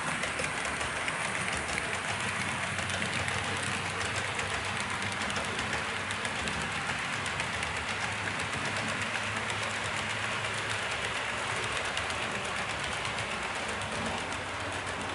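A train rolling along track: a steady rumble with fine, rapid clicking from the wheels, slightly easing near the end.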